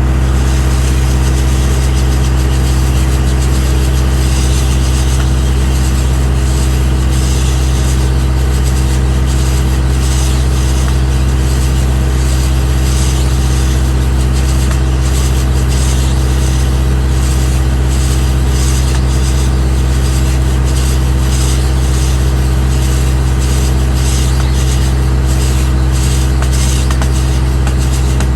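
Engine of heavy farm machinery running steadily at a constant speed during silage work, a loud low drone that holds unchanged.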